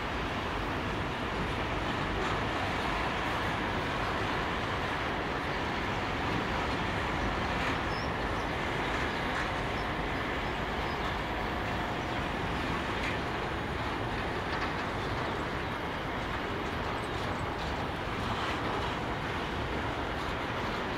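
Container wagons of a long freight train rolling past: a steady rumble of wheels on rail, with faint steady high tones and a few light clicks from the wheels.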